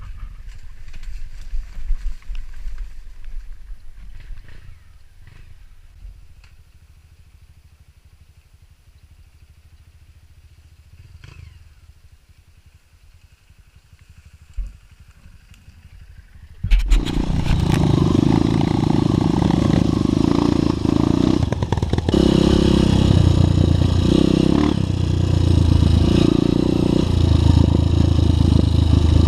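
A quiet stretch with a few faint knocks and scrapes. Then, a little over halfway through, a trail motorcycle's engine comes in suddenly and runs loud and uneven, its level rising and falling.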